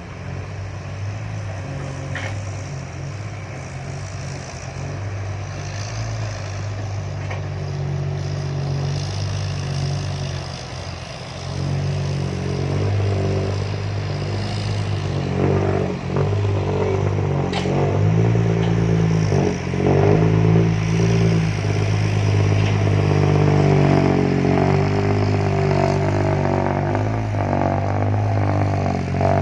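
Diesel dump truck engine with a loud aftermarket exhaust, working hard and revving as it climbs out of a pit. It grows louder about twelve seconds in, and its pitch rises and falls.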